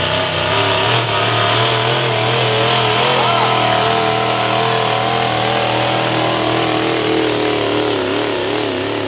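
Pro stock turbo-diesel pulling truck engine running hard under load, its note wavering up and down and sagging a little lower toward the end.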